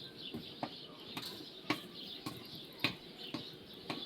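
Sharp knocks, one about every half second, over a faint chatter of birds.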